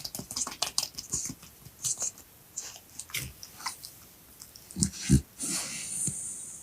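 A dog's mouth sounds close to the microphone: a run of irregular short clicks like chewing, with two low thumps about five seconds in, followed by about a second of hiss.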